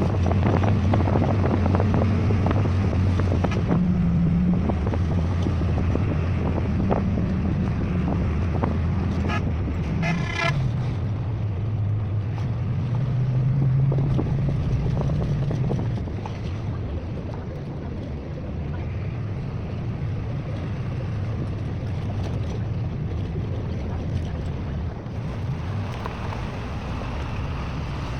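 Bus engine running on the move, its hum rising and falling with the revs over road and wind noise. A horn sounds briefly about ten seconds in, and the engine gets quieter about sixteen seconds in.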